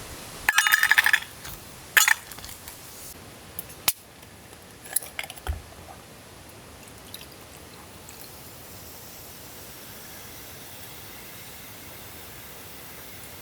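A ringing clink and a few sharp knocks and small clatters of gear being handled, then a steady hiss of rain.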